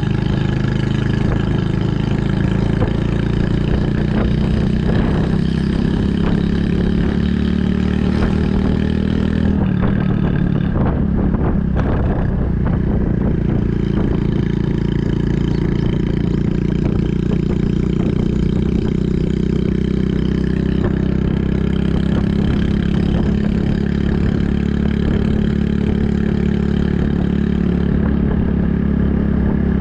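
Honda Super Cub 110's air-cooled single-cylinder four-stroke engine running through an aftermarket Kitaco mini Cabton muffler while riding. The engine note shifts about ten seconds in, as at a gear change or a change of throttle, then runs steady again.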